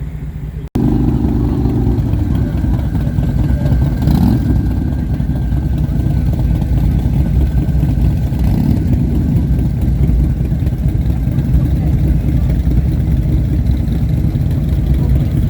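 Motorcycle running on the road: a loud, steady low rumble that starts abruptly after a brief dropout less than a second in.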